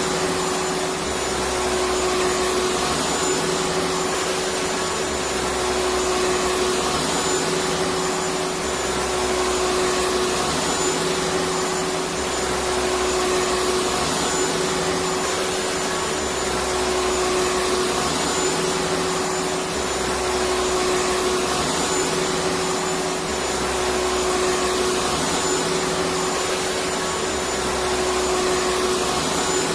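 Electric vacuum cleaner running steadily, a continuous rushing noise with a steady hum, and a low rumble that swells and fades every few seconds.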